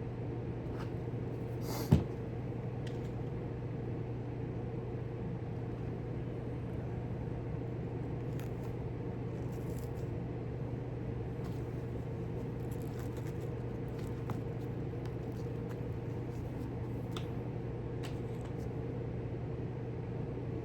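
Steady low hum with one sharp click about two seconds in and a few faint ticks later, from thumbtacks being handled and pressed into the underside of a model overpass.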